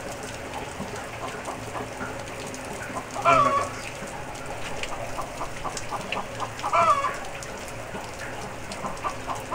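Steady rain falling on a yard, with chickens clucking and a loud, short chicken call about three seconds in and again near seven seconds.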